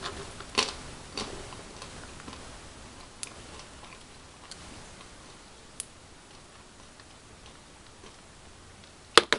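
Scattered light clicks and taps of toys being handled and set down, with a sharper, louder click near the end.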